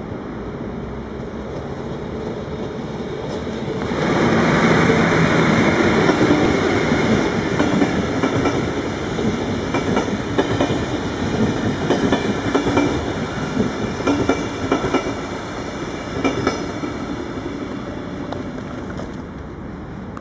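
Locomotive-hauled passenger train approaching and passing close by: the rumble grows, jumps up about four seconds in, and the coach wheels clack over the rail joints in a run of sharp knocks before the sound fades away near the end.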